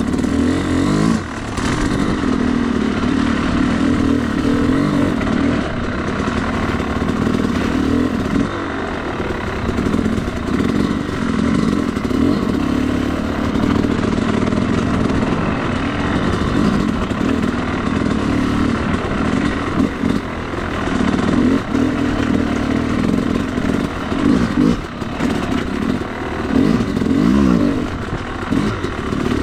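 Yamaha YZ250 two-stroke dirt bike engine running under riding load, its pitch rising and falling with the throttle and easing off briefly several times.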